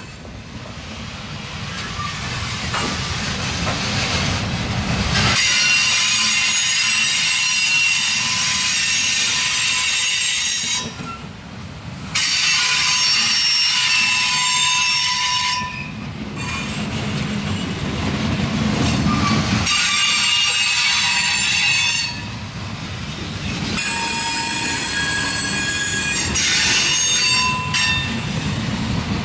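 Loaded coal cars of a freight train rolling past, with a steady rumble of steel wheels on rail. Long stretches of high-pitched wheel squeal come and go over it, dropping out briefly twice.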